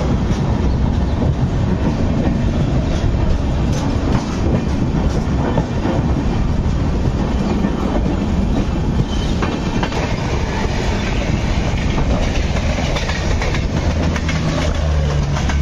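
Indian Railways express with LHB coaches running, heard from an open coach door: a steady rumble of wheels on the rails with clickety-clack over the rail joints. Another train passes close alongside near the end.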